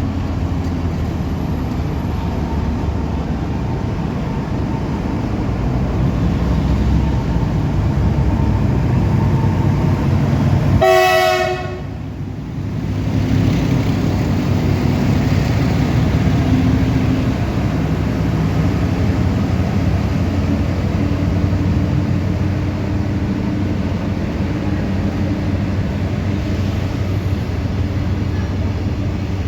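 Diesel locomotive engine running with a steady low rumble, and a single horn blast of about a second near the middle.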